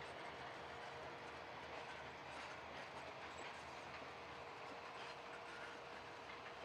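Faint, steady sound of a train on the track, a low rumble with a thin steady hum above it.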